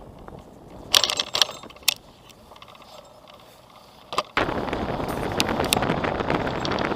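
A few sharp mechanical clicks and a short rattle from the recumbent bicycle's drivetrain, about a second in. About four seconds in, loud wind noise on the microphone suddenly comes up and keeps going.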